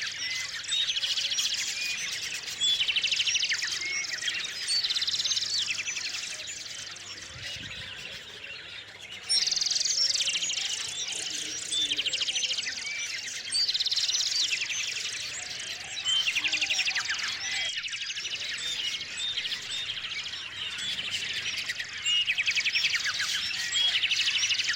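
Small songbirds chirping, with one bird repeating a fast trilled phrase about every two to three seconds over many short high chirps.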